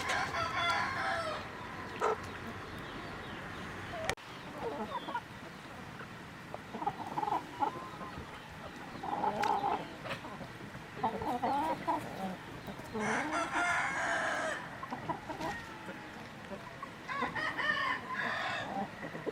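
Chickens clucking, with three longer crowing calls from a rooster: one at the start, one about two-thirds of the way in and one near the end.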